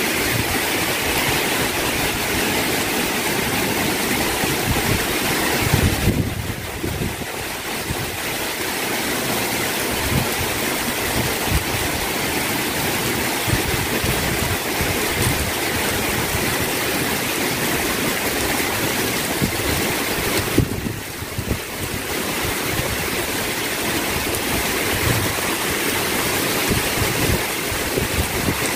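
Heavy rain pouring down steadily, with gusty wind buffeting the microphone in low, uneven rumbles. The hiss dips briefly twice, about a fifth of the way in and again about two-thirds of the way through.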